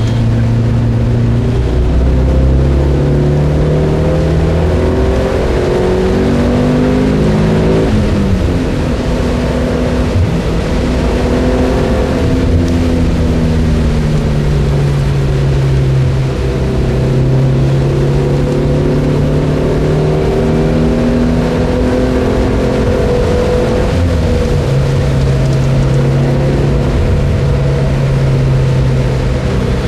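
Cabin sound of a Mitsubishi Lancer Evolution MR FQ-360's turbocharged 2.0-litre four-cylinder engine driven hard, its revs climbing and dropping several times through gear changes and lifts, over a steady hiss of tyres on a wet road.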